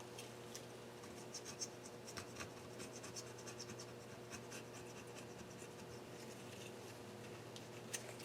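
Faint, irregular light scratching and small ticks of hands handling and rubbing metal engine parts, over a steady low hum.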